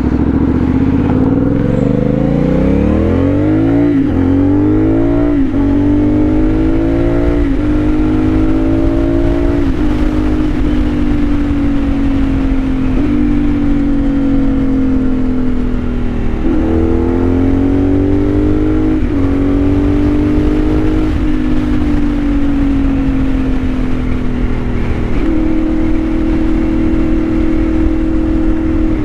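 CFMOTO 450SS parallel-twin engine running through a new slip-on exhaust with its baffle fitted, being revved over and over: the pitch climbs in the first few seconds, then comes a string of short throttle blips, each jumping up quickly and sinking back over a second or two. Near the end it holds a steady, slightly raised idle.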